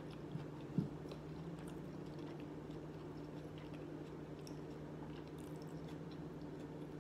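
Quiet chewing of a mouthful of shrimp and rice, with faint ticks over a low steady hum.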